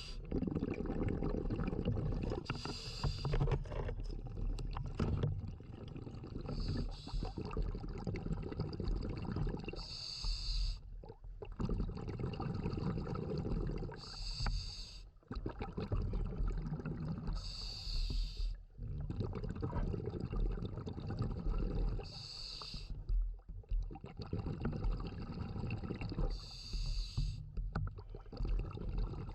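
Scuba diver breathing through a regulator underwater: a short hiss about every three to four seconds, with a low bubbling rumble of exhaled air between.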